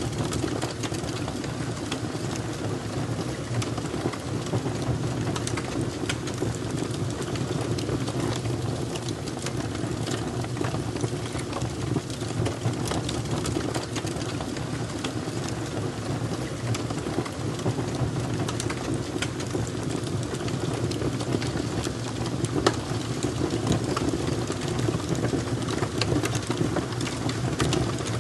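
Wood fire crackling: a steady low rush of flames with frequent small, irregular pops and snaps, one louder pop about three quarters of the way through.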